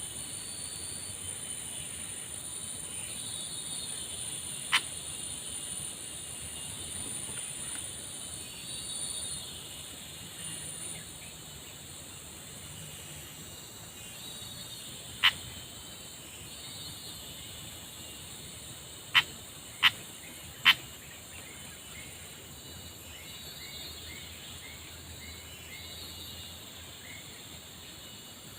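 Tropical outdoor ambience: a steady high-pitched insect drone, with scattered chirps and calls of small birds. Five sharp, very short loud chips stand out, one at about 5 s, one at about 15 s and three close together around 19–21 s. A quick run of small repeated notes comes near the end.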